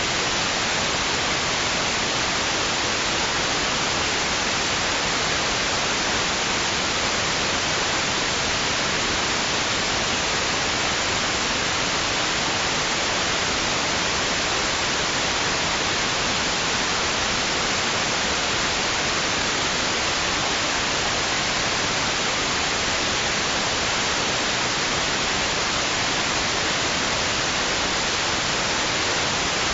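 Steady white noise: an even, hissing rush at a constant level, with no rise and fall of waves.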